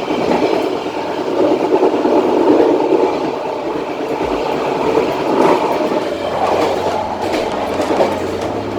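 Passenger train rolling along the track, a steady rumble of wheels on rails with a few scattered clicks. A low steady hum joins about six seconds in.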